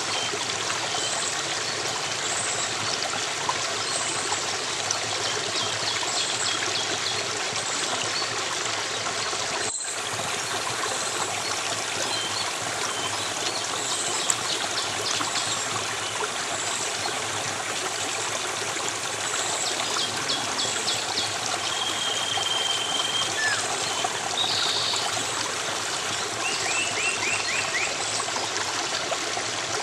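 Running stream flowing steadily, with short bird trills and chirps now and then. The sound cuts out for an instant about ten seconds in.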